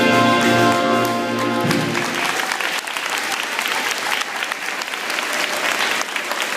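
Middle-school wind band holding its final chord, which cuts off about two seconds in, followed by audience applause.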